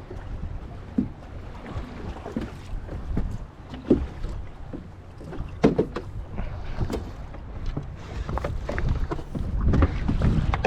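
Small boat on choppy water: a steady low rumble of wind and water, with irregular sharp knocks scattered through it and a louder gust of wind near the end.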